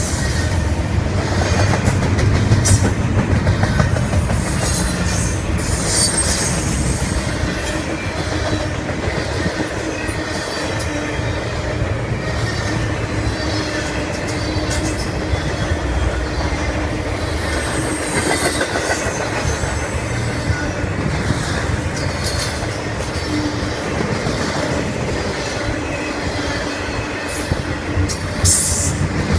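Long intermodal freight train rolling past at about 55 mph: a steady rumble of steel wheels on rail, with sharp clicks over rail joints and a faint wheel squeal.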